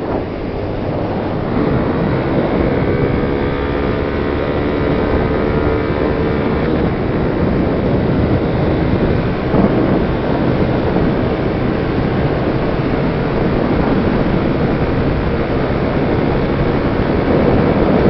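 Road noise of driving on a highway: heavy wind buffeting on the microphone over a steady low rumble, with an engine's steady drone showing from about a second and a half in until about seven seconds in.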